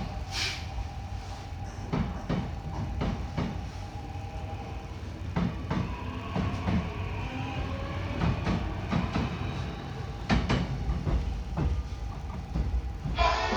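Seoul Metro 6000-series subway train running, a steady low rumble with irregular clicks and knocks, and a short hiss about half a second in.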